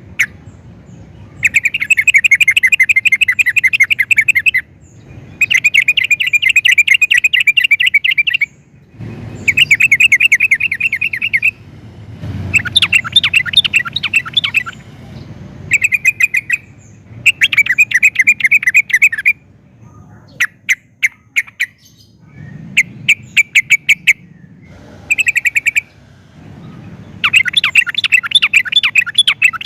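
Yellow-vented bulbul singing: about ten loud bursts of fast, chattering notes, each one to three seconds long, with short pauses between.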